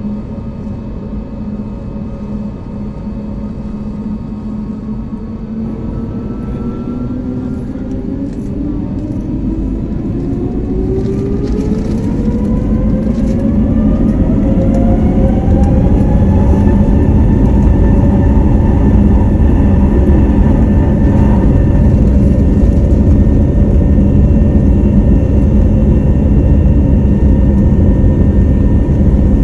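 Airbus A321neo's Pratt & Whitney geared turbofan engines spooling up to takeoff thrust, heard from inside the cabin. From about seven seconds in, a rising whine climbs and grows louder for roughly ten seconds, then holds steady over a loud, deep rumble.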